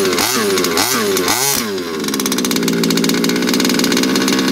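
HPI Baja 5B's small two-stroke petrol engine being blipped, its note rising and falling about three times a second, then settling after about two seconds into a steady run.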